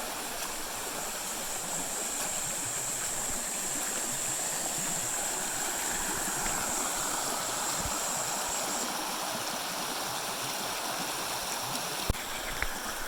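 Creek water flowing steadily. A thin, steady high tone sits over it until about nine seconds in, and there is one sharp tap near the end.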